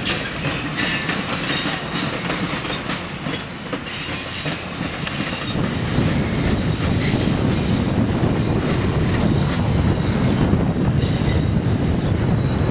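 Passenger cars of a steam excursion train rolling past on the rails, their wheels clattering over the track with some high wheel squeal. The rumble grows louder about six seconds in.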